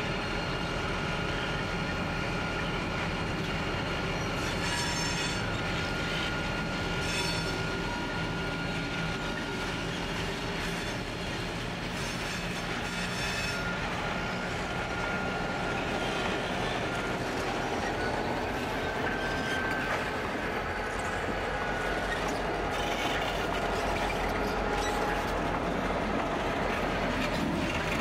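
Three diesel-electric freight locomotives, BL32, X48 and G523, running slowly past with loaded grain hopper wagons: a steady engine rumble with a thin high squeal of wheels on the rail and occasional clanks of wheels crossing rail joints.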